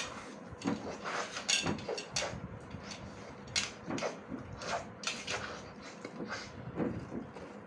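Irregular small clicks, knocks and rustles, a dozen or so spaced unevenly, as Cadbury Gems candy-coated chocolates are eaten without hands, taken up from their dish or packet by mouth.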